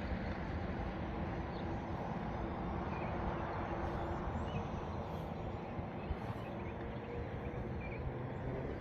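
Faint steady whine of a micro brushless RC plane's electric motor in flight, under rough wind noise on the microphone, with a few small bird chirps.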